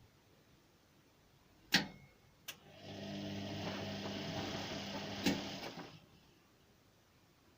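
Whirlpool WNQ66A washing machine making the noise it is faulted for: two sharp clicks, then its motor runs with a humming whir for about three seconds, a knock near the end, and stops.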